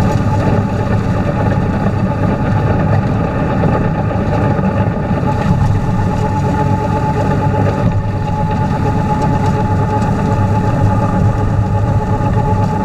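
Tractor engine running steadily with a three-point-hitch snowblower, a low rumble with a steady high whine over it.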